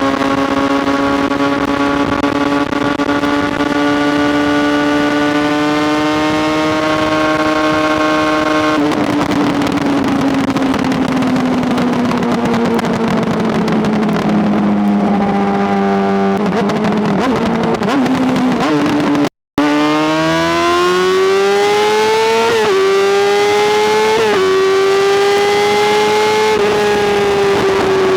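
Honda CBR600RR inline-four sport bike engine under way. It pulls with slowly rising revs, then rolls off and falls in pitch, with stepped drops from downshifts. The sound cuts out for an instant, then the bike accelerates hard with two quick upshifts and eases off near the end.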